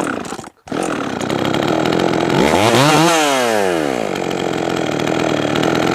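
Jonsered 525 two-stroke chainsaw running after a carburettor tune, revved up once and dropping back about halfway through. The owner calls it running good now.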